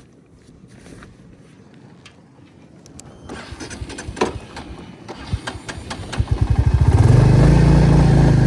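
Motorcycle engine being started: a few clicks, then the starter cranks it over with quickening strokes, and about seven seconds in it catches and settles into a steady idle.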